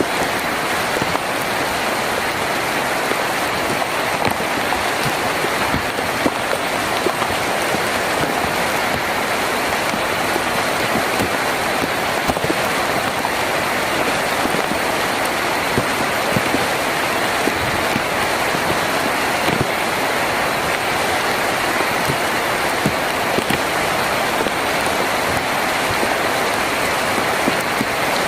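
Heavy rain drumming steadily on a tin roof, a dense even patter with countless individual drops ticking through it.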